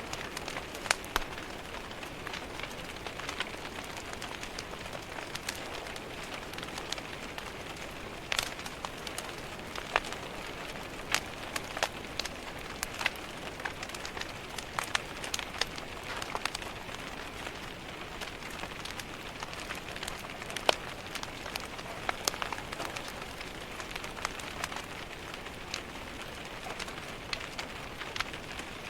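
Steady rain falling against a window, an even hiss, with a wood fire crackling over it in sharp, irregular pops.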